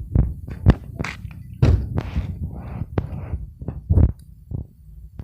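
A run of irregular thuds and knocks, about a dozen, from someone walking with a handheld phone: footsteps and handling bumps close to the microphone.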